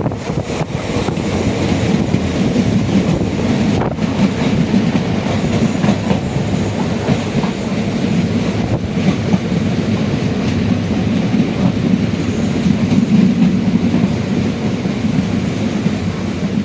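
Passenger train running along the track, heard from on board: a steady, loud rumble of wheels on rail with a few faint clacks over rail joints.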